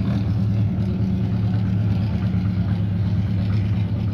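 Vintage Indy-style race car engine running steadily, its low pitch holding level with no revving.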